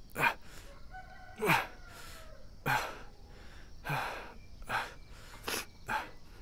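Short breathy vocal huffs from a person, about one a second, each dropping in pitch.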